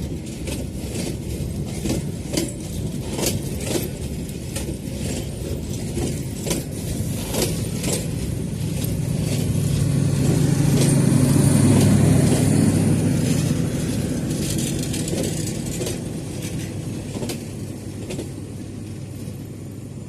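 Passenger train running on the rails: sharp clacks of the wheels over rail joints through the first half, then a louder low rumble with a steady hum that builds to a peak about twelve seconds in and dies away again.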